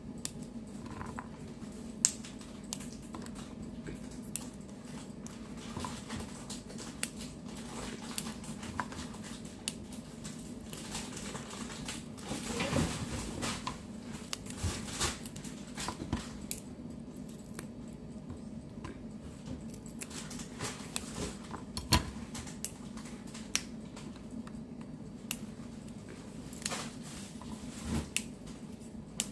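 Kitchen sounds: scattered light clicks and knocks of utensils and cookware over a steady low hum, with two sharper knocks, one about two seconds in and one past the twenty-second mark.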